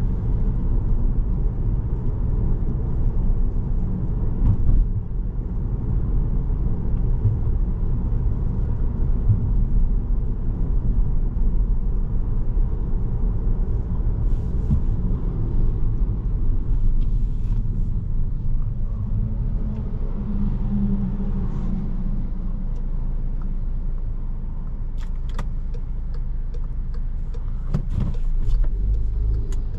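Cabin sound of a 2017 Volkswagen Jetta SE with a five-speed manual on the move: a steady low rumble of engine and road noise.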